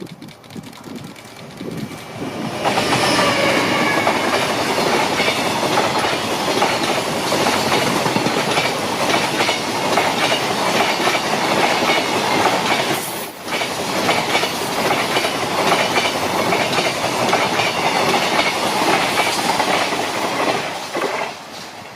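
Train passing at close range: the noise comes up about three seconds in, runs loud and steady with wheels clattering over the rails, then falls away near the end.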